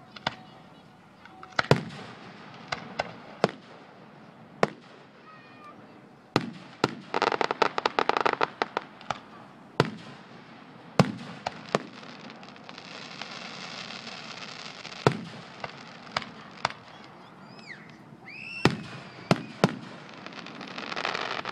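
Aerial fireworks display: shells bursting in a string of sharp booms at irregular intervals, with a dense run of rapid crackling about seven to eight seconds in.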